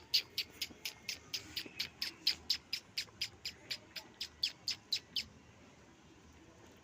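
A bird giving a rapid series of short, high chirps, about four a second, that stops about five seconds in.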